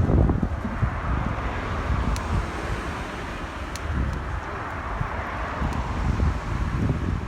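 Wind buffeting the microphone in low rumbling gusts, over a steady rushing noise that swells and fades, with a few faint ticks.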